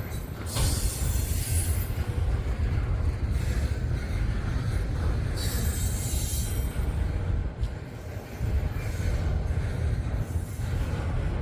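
Freight train rolling past with a steady low rumble of wheels on rail, and a high wheel squeal that rises twice, about a second in and again about six seconds in.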